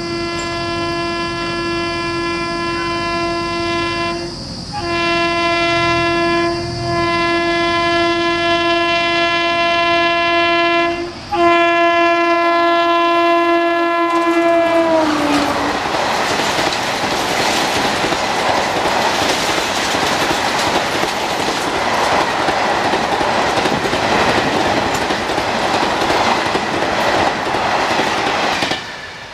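WAP-4 electric locomotive's air horn sounding in long blasts with three short breaks as the train approaches at about 120 km/h, the horn's pitch sliding down as the locomotive passes about 15 seconds in. Then comes the loud rush and rattle of the Duronto's coaches speeding past, which cuts off abruptly just before the end.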